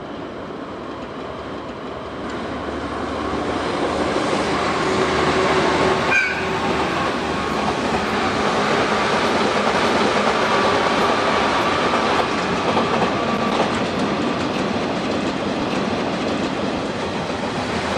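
Trains rolling past on adjacent tracks: an orange commuter electric train and a freight train of Wamu 80000 boxcars behind a DE10 diesel locomotive, their wheels clacking over the rail joints. The rolling noise builds over the first few seconds and stays loud, with a sharp clank about six seconds in.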